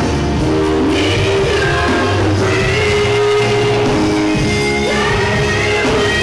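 Gospel music with singing and a band, the bass and held vocal notes steady throughout.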